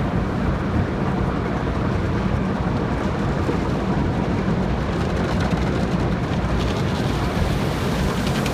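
Steady rushing noise of a car wash: water spray and machinery running without a break, with a faint rapid patter joining in near the end.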